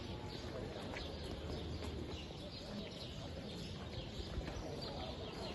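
Small birds chirping in many short, scattered calls, over a steady low rumble of open-air background.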